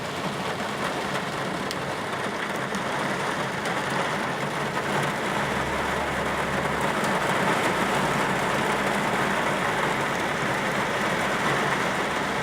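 Summer rain falling steadily, an even hiss that grows a little louder partway through.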